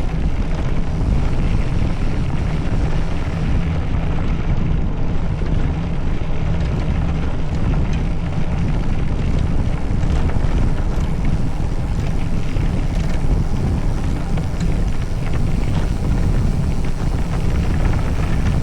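A vehicle driving, its steady low road and running noise mixed with heavy wind buffeting the microphone.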